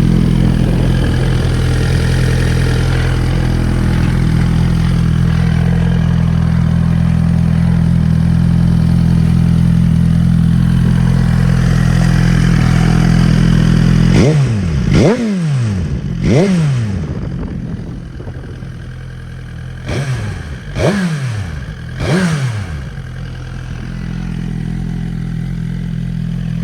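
2017 Suzuki GSX-R1000's inline-four engine idling steadily, then blipped sharply several times, each rev rising and falling straight back, before settling to idle again near the end.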